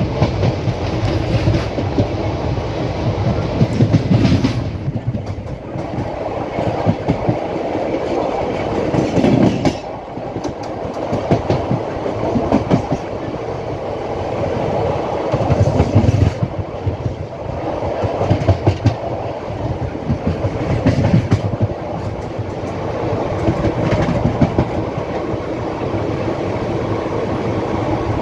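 Indian Railways passenger train running along the track: a steady rumble with the clickety-clack of wheels over rail joints, louder every few seconds.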